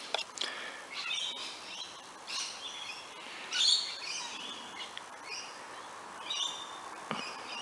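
Wild birds chirping and calling in short high phrases, one every second or so, over faint outdoor background noise.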